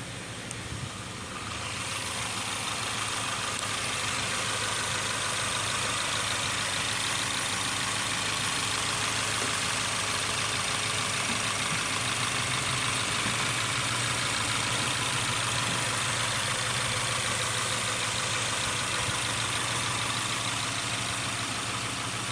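Subaru Forester's flat-four engine running steadily at idle. It grows louder about a second and a half in and then holds an even note.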